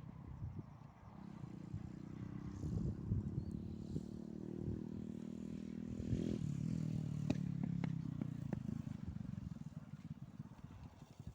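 A motor vehicle's engine passing close by, growing louder and then dropping in pitch about six seconds in, with a few sharp clicks.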